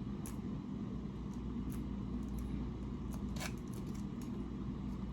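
A few scattered small clicks and crinkles from hands working at a small package that won't open, over a steady low hum.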